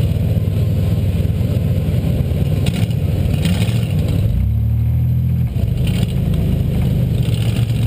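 A 2000 Buick LeSabre's 3.8-litre V6 engine running loud and rough under throttle, heard from inside the car. Midway it settles for about a second into a steadier, lower note.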